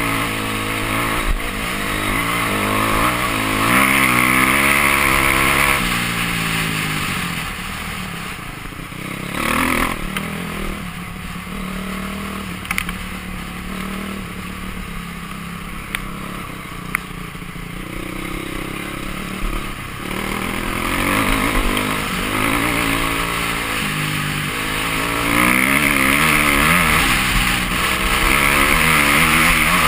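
Dirt bike engine on a trail ride, revving up and down through the gears, with wind rush over the camera's microphone. It eases off for a long stretch in the middle and opens up again near the end, with a couple of sharp clicks partway through.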